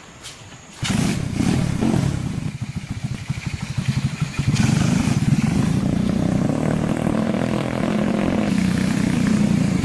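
A vehicle engine starts about a second in and runs with a rapid low firing beat. It picks up to a louder, steady run about four and a half seconds in.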